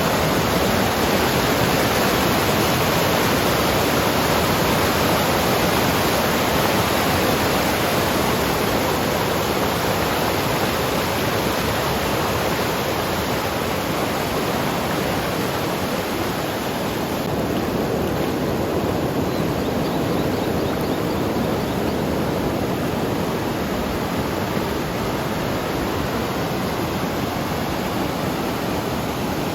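Rain-swollen mountain river rushing past, a loud, steady, even noise of fast-flowing water.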